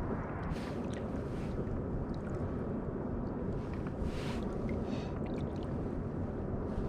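Sea water sloshing and lapping against a kayak's hull, over a steady wind rumble on the microphone, with a couple of brief hissing splashes.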